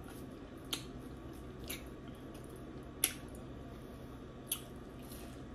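Close-miked eating sounds of a person gnawing meat off a lamb chop bone: soft chewing with four sharp wet mouth smacks about a second apart, the loudest about three seconds in.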